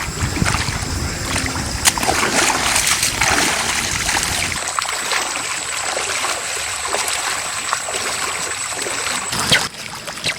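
Splashing and sloshing of floodwater with scattered sharp clicks. The sound changes abruptly about halfway through, losing most of its low rumble.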